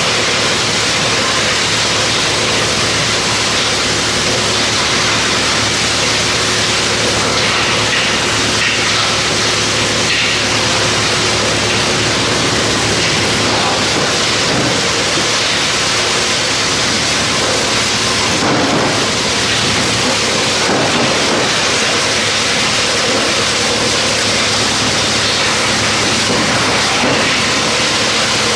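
Industrial wood chipper running: a loud, steady rushing noise over a constant machine hum.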